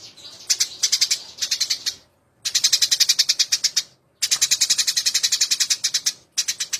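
Eurasian tree sparrows giving fast fighting chatter: rapid high chirps, about ten a second, in runs of one to two seconds with short breaks between.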